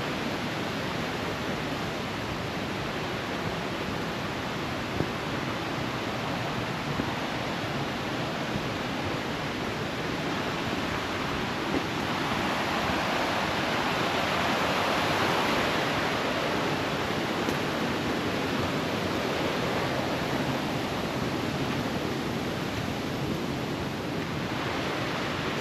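Rushing creek water: a steady hiss that grows louder about halfway through, then eases a little.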